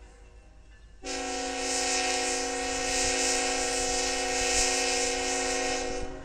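Locomotive air horn sounding one long blast, several tones at once as a chord, starting suddenly about a second in and cutting off near the end.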